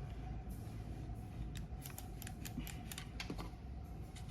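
Computer mouse buttons being clicked, about ten sharp clicks at an uneven pace.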